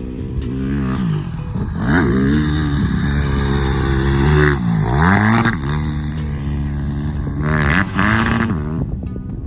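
Honda CRF150R dirt bike's single-cylinder four-stroke engine revving as it is ridden. Its pitch drops and climbs again about three times as the throttle is rolled off and opened.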